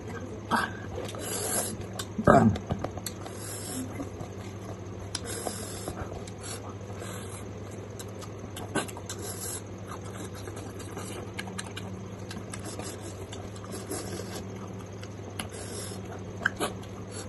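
Close-miked chewing and lip-smacking as a mouthful of pork and rice is eaten by hand, with many small wet mouth clicks and a louder smack about two seconds in. A steady low electrical hum runs underneath.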